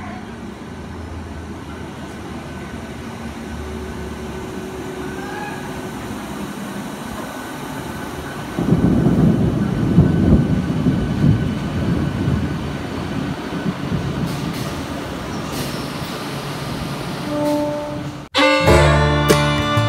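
An electric multiple unit local train running into a station. Its rumble grows steadily as it approaches, then turns loud and rough about eight and a half seconds in as the train passes beneath. Near the end the train sound cuts off suddenly and music takes over.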